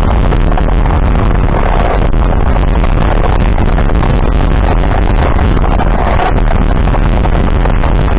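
Steady, loud running noise of a moving vehicle: engine and wind noise with a heavy low rumble that does not let up.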